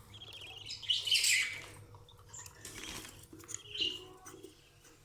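Budgerigars chirping and chattering in their cages, with short high calls, the loudest about a second in.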